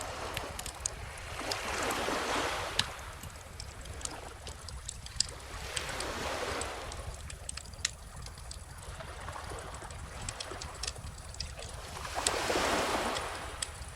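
Small ocean waves washing in and ebbing every few seconds, with sharp pops and crackles from a burning wood bonfire scattered over them and a low steady rumble underneath.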